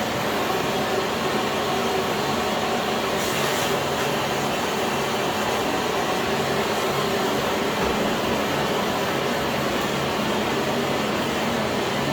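Philips PowerPro FC9331/09 bagless vacuum cleaner's 900 W motor running steadily with a constant rushing of air, briefly hissing higher about three seconds in.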